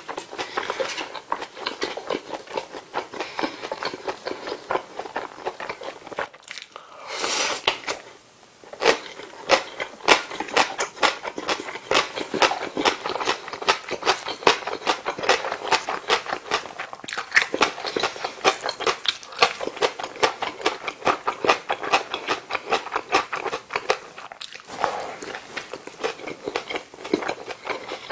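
Close-miked chewing of a McDonald's bulgogi burger: wet, irregular mouth clicks and smacks, many a second. A short breathy rush comes about seven seconds in, followed by a brief lull.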